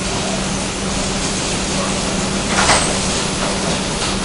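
R142 subway car running between stations: a steady wash of rolling and track noise with a constant low hum, and a brief hiss a little past halfway.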